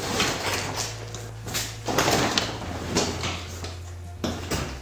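Sectional garage door slid up by hand, its rollers rumbling and rattling along the steel tracks in a few uneven surges.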